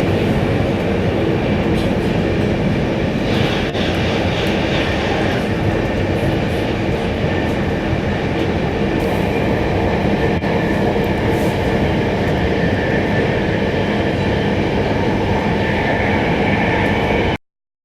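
Fyra V250 high-speed electric train running at speed: a steady loud rush and rumble of wheels on rail with some clickety-clack, which cuts off abruptly near the end.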